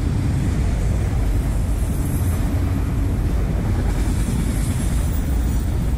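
Loaded autorack cars of a freight train rolling past, a steady rumble of steel wheels on the rails.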